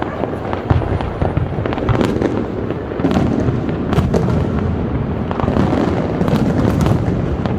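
Fireworks display going off in a dense barrage: a continuous rumble of booms with many sharp cracks and crackling bursts over it, building up about three seconds in.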